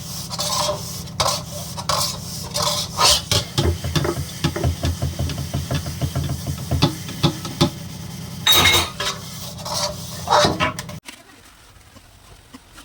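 A utensil stirring and scraping food in a sizzling pan, with quick clicks and knocks of metal on the pan. The sound stops abruptly about eleven seconds in, leaving a quiet background.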